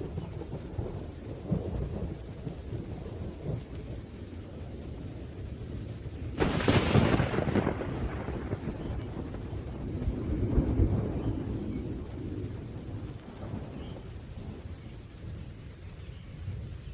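Thunderstorm with rain: low rolling thunder rumbles throughout. A sharp thunderclap crashes about six seconds in and fades back into rumbling, and the rumble swells again around ten seconds in.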